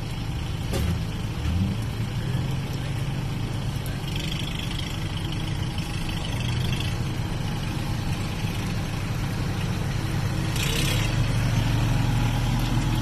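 An engine running steadily with a low, even drone, getting louder for the last couple of seconds.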